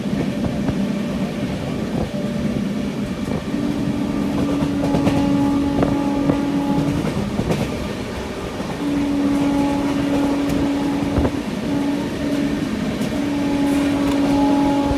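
Express passenger train running along the track, heard from on board: a steady rumble with occasional knocks from the rails, and a steady hum that comes and goes in stretches of a few seconds.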